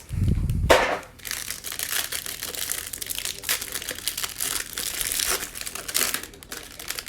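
A short low thump, then steady crinkling and tearing of packaging as a trading-card hanger box is opened and its cards unwrapped.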